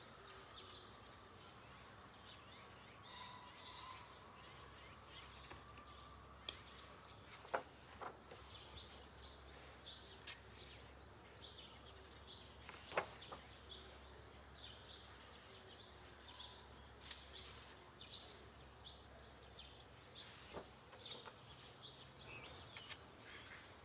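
Faint handling of a coloring book's cardstock pages: scattered soft rustles and a few sharp paper clicks and taps as pages are turned and touched.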